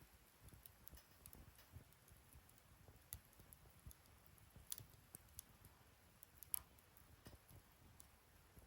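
Faint crackling of a wood fire in a fire stand: scattered small pops and ticks over a low hush, the sharpest about six and a half seconds in.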